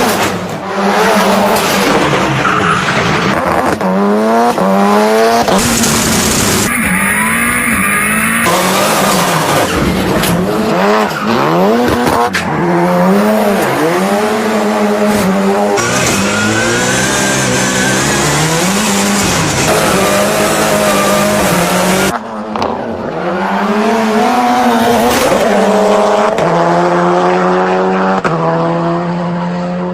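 Drift cars' engines revving hard, their pitch rising and falling again and again, with tyres screeching as the cars slide, and abrupt cuts from one car to the next.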